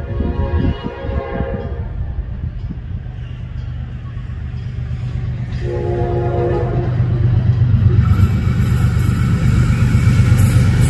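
General Electric diesel locomotive approaching at speed. Its horn chord cuts off about two seconds in and gives a second short blast about six seconds in, while the low engine rumble grows louder as it nears. Near the end a rushing noise of the train passing close comes in over the rumble.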